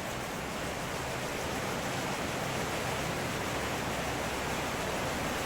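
Heavy rain pouring down steadily in a thunderstorm, an even hiss that swells slightly.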